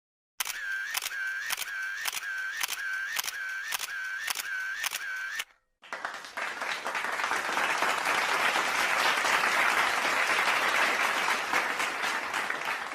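Two sound effects in a row. First comes a run of about eleven evenly spaced mechanical clicks, a little over two a second, each with a short ringing tone, like a camera shutter firing in a burst. After a brief pause, a crowd applauds, swelling and then thinning out near the end.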